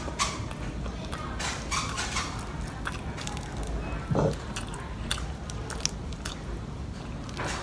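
Close-up chewing and crunching of fried catfish, with scattered small crackling clicks as the fried fish is pulled apart by hand.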